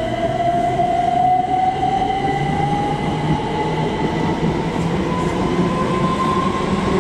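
c2c Class 357 electric multiple unit pulling away from the platform. Its traction motors give a whine that rises steadily in pitch as it accelerates, over a low running rumble.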